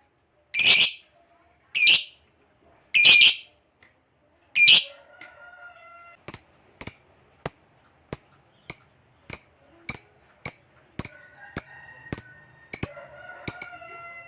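Lovebird calling: four loud, harsh screeching calls about a second apart, then from about six seconds a steady run of short, sharp high chirps, roughly two a second, with faint twittering from other birds behind.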